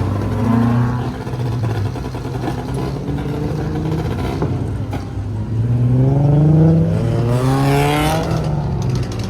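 Car engine under hard acceleration, its note climbing steadily over a couple of seconds in the second half, after a steadier engine sound earlier on.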